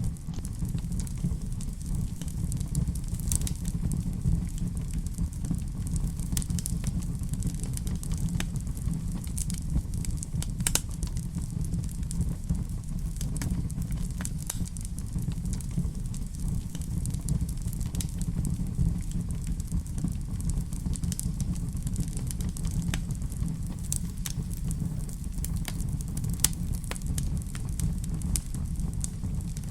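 Wood fire in a fireplace, crackling with scattered small pops over a steady low rumble, with a sharper pop near the end.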